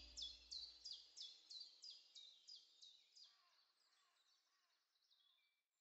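Faint bird song: a run of short, falling chirps, about three a second, growing fainter until they die away near the end. The last of the music fades out in the first second.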